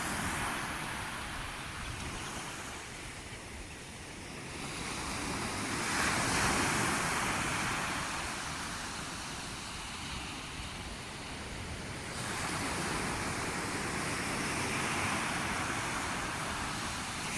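Sea waves breaking and washing on a shore, the surf rising and falling in slow swells, with a louder surge about six seconds in and another about twelve seconds in. A little wind noise on the microphone.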